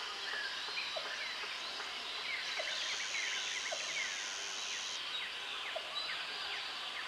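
Tropical jungle ambience: many birds chirping and whistling, with a short low note repeating about once a second. A high insect drone comes in about two and a half seconds in and cuts out about halfway through.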